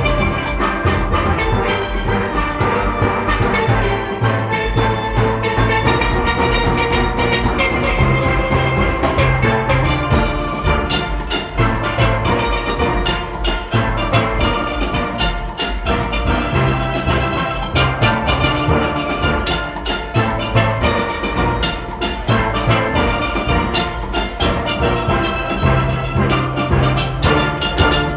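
A steel orchestra playing: many steelpans ringing out a melody and chords over deep bass pans, with drums and percussion keeping a steady beat.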